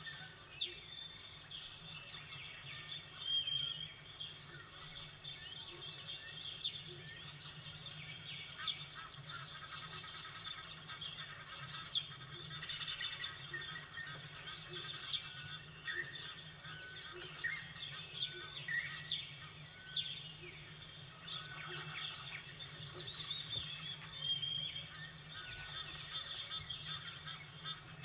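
Small birds chirping, with many short calls and quick trills throughout, over a low steady hum.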